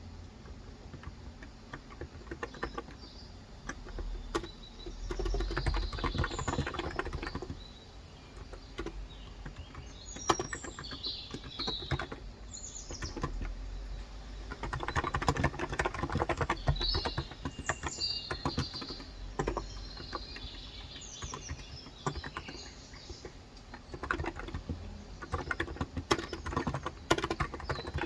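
Typing on a Cox Endeavour electro-capacitive tenkeyless keyboard with light 35 g switches: a steady run of soft keystrokes, in flurries, with birds chirping through the first two-thirds.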